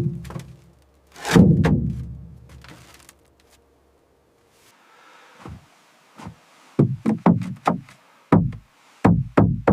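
A heavy thump about a second in that rings on, then a quick run of dull knocks near the end, like timber or tools striking.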